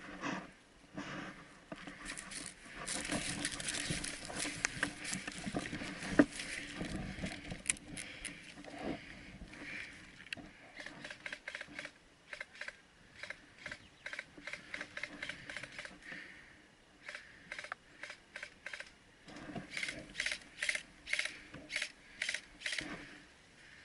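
Footsteps crunching through dry brush and leaf litter, with vegetation rustling against clothing and gear; the steps fall about two a second through the second half, with one sharp snap about six seconds in.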